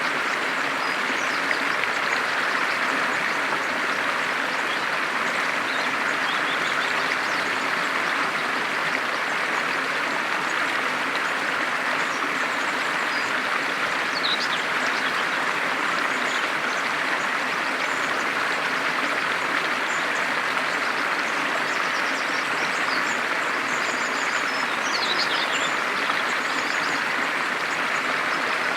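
Steady rush of running water, like a stream. A few faint, high bird chirps come through it, a quick cluster about halfway through and more near the end.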